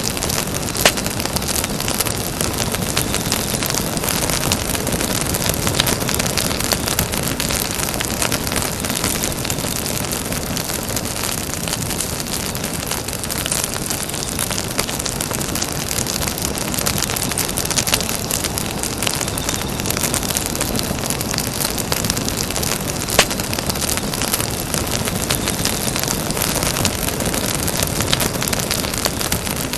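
Campfire burning: a steady rush of flame noise full of small crackles and pops, with two sharper pops, one about a second in and another about two-thirds of the way through.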